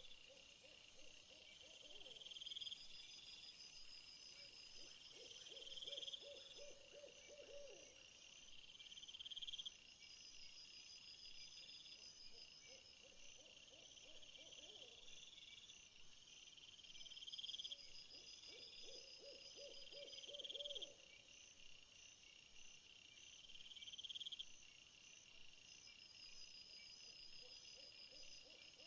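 Faint insects chirping: repeated rising trills and high pulsed tones, with a lower pulsed animal call every four to five seconds.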